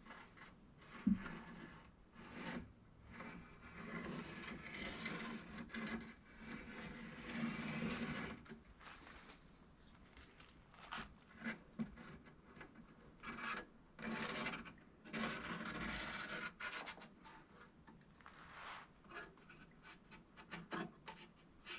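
Faint, irregular rubbing and scraping of hand work on the steel piece, with one sharp knock about a second in.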